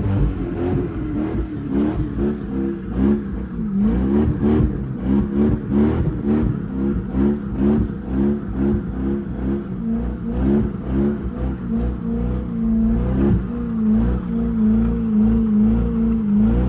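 A BMW 323Ci's straight-six engine revving up and down again and again under hard driving, then holding a steadier pitch near the end.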